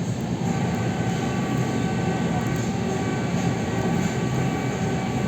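MCD-1 electric commuter train running, heard from inside the carriage: a steady rumble of wheels on the rails, with a faint steady whine above it.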